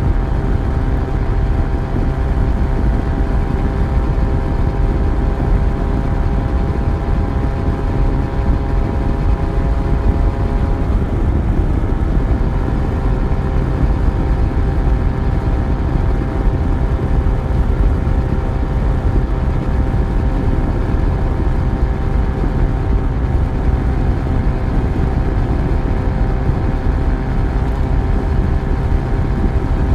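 Yamaha FZ1's inline-four engine running at a steady speed during a ride, over a dense low rumble. The engine pitch steps slightly lower about eleven seconds in.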